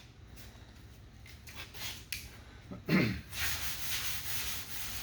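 Sanding block with 180-grit paper rubbed back and forth over lacquer primer on a car body panel: a few light scrapes, a thump about three seconds in, then steady rapid sanding strokes.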